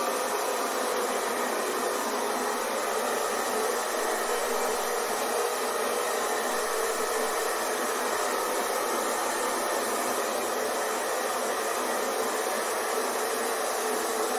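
Hair dryer running steadily, an even whooshing rush of fan and airflow with no change in pitch or level.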